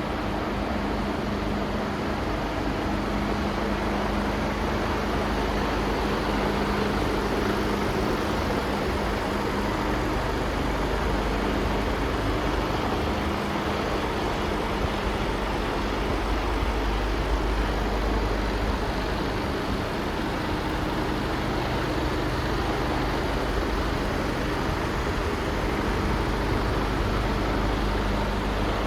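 Mercedes Actros 2545 tractor unit's Euro 6 straight-six diesel engine idling steadily, a constant low hum under a wash of noise.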